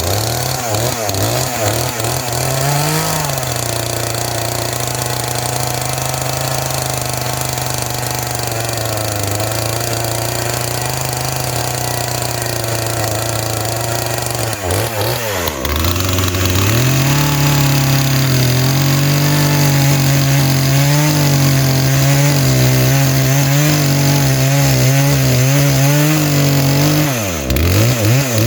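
Gas chainsaw cutting through a tree stump, its engine held at high revs with the pitch wavering under load. The revs drop briefly about halfway through and again near the end, then come back up.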